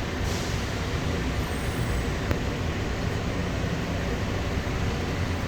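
Steady rumble inside a moving Bombardier CX-100 airport people-mover car, from its rubber tyres and running gear on the guideway as it takes a turn. A faint high whine comes in briefly about two seconds in, followed by a single click.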